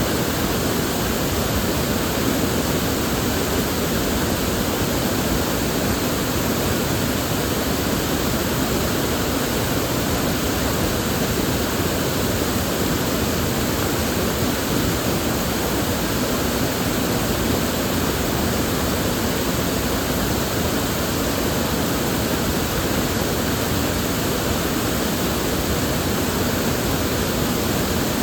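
River water flowing steadily, an even rushing hiss with no breaks or changes.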